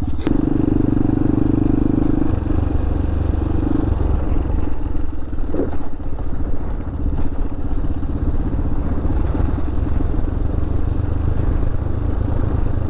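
Hawk 250 dual-sport motorcycle's single-cylinder engine running under way on a dirt trail, its note shifting as the throttle changes, with a couple of sharp knocks from the bike.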